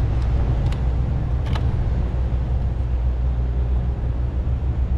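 A vehicle engine running steadily, a low even rumble, with a couple of faint clicks about a second in.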